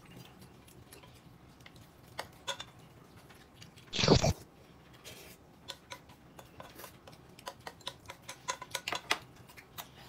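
Close-up eating sounds: a person chewing with lip smacks and small wet clicks, coming thicker in the second half, and one brief louder burst about four seconds in.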